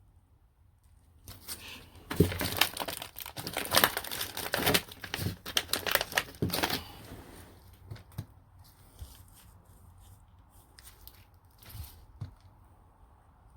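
Crinkling and tearing of packaging as a sleeve of Growler firework shells is handled and unwrapped, busiest from about a second in to about seven seconds, then a few light taps and clicks.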